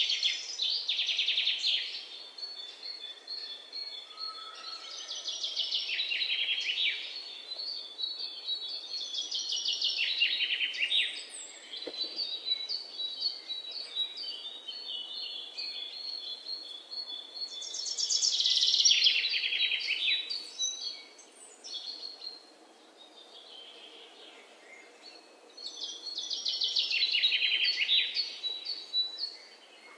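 Birdsong: loud trilled phrases about two seconds long, each falling in pitch, repeated every several seconds, with thinner high chirps in between.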